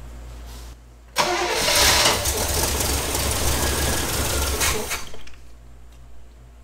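The long-dormant 1985 Oldsmobile Cutlass 442's V8 fires up suddenly about a second in and runs loudly for about four seconds. It then falls off sharply to a low level.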